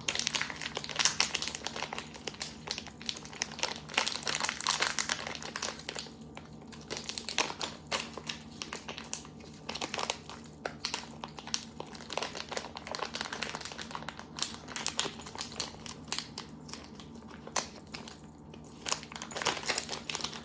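Plastic icing pouch from a gingerbread kit crinkling and rustling as it is kneaded by hand to soften the icing, a continuous stream of irregular crackles.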